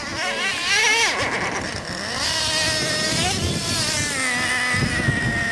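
Small nitro engines of several radio-controlled cars running at once, their high-pitched whine rising and falling as they accelerate and back off.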